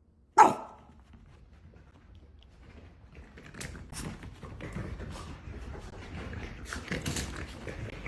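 One short animal call about half a second in, followed by quieter rustling and scattered light clicks.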